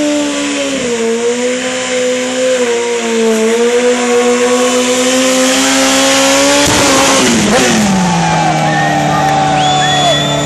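Honda Fireblade inline-four sport-bike engine, with an aftermarket sport exhaust, held at high revs to spin the rear tyre in a stationary burnout, the revs wavering. About seven seconds in, a brief rush of noise as the revs drop, then the engine runs steadily at a lower pitch, with thin high squealing tones near the end.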